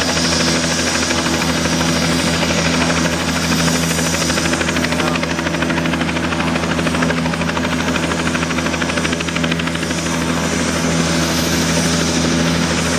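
Helicopter running on its landing pad with the rotor turning, a steady engine and rotor sound with a fast regular blade beat.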